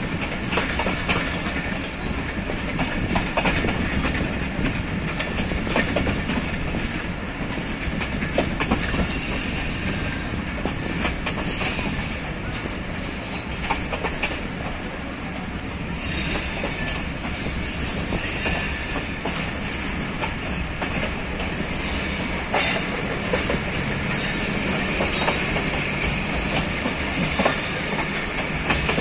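A moving passenger coach heard through an open window: a steady rumble and rush of steel wheels on the rails, with irregular clicks and knocks from the track.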